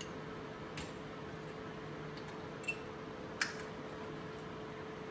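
Three short, light clicks of small hard objects being handled, about a second in, near the middle and shortly after, over a steady background hum.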